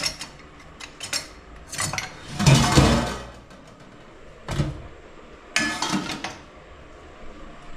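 Metal utensils clanking and scraping against a cooking pot in several separate bursts, the loudest and longest about two and a half seconds in.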